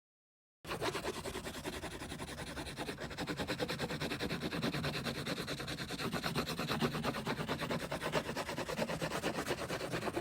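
A coloring tool scribbling on paper in rapid, even back-and-forth strokes, starting about half a second in.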